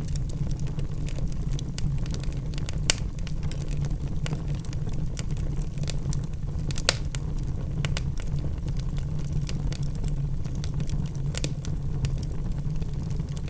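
Wood fire burning in a fireplace: a steady low rumble with scattered sharp crackles and pops from the burning logs, two louder pops about 3 and 7 seconds in.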